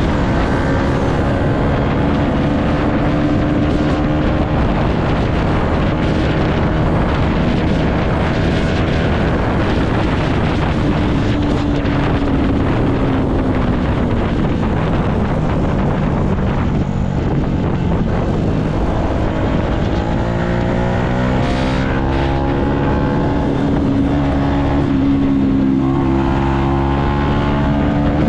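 Yamaha MT-125's single-cylinder four-stroke engine running while ridden, its pitch sinking as the revs drop midway and climbing again near the end, with wind noise on the microphone.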